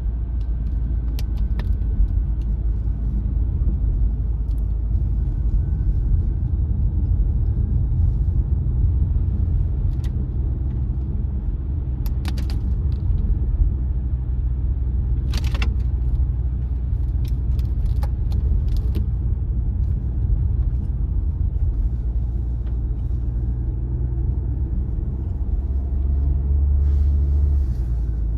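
Car driving along a road: a steady low rumble of tyres and engine, with scattered sharp clicks and ticks, the loudest about halfway through. The low rumble swells briefly near the end.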